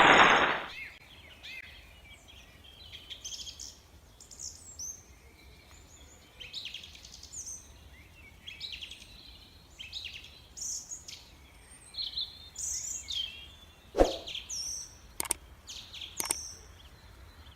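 Small birds chirping: many short, quick calls at irregular intervals, with a few sharp clicks near the end.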